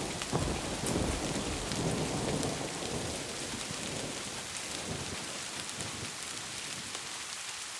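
Steady rain hissing, with a low thunder rumble fading away over the first few seconds.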